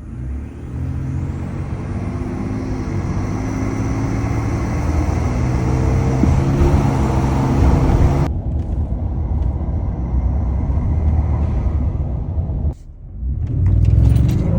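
Ford F-150's 3.5 L twin-turbo EcoBoost V6, breathing through an AEM dual cold air intake, running with a steady low rumble. The sound changes abruptly twice, about 8 and 13 seconds in.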